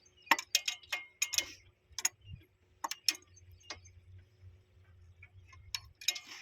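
Irregular sharp clicks and taps, about a dozen, bunched in the first half, from tools and hardware being handled while a railway point machine is fitted. A faint low hum runs beneath.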